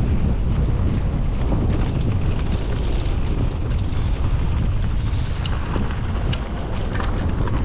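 Wind buffeting the microphone steadily, as on a fast mountain-bike descent, with scattered sharp clicks and rattles throughout and a cluster of them near the end.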